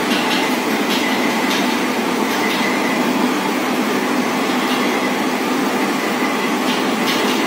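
A train running on rails, a steady rumble with a faint steady whine and occasional faint clicks.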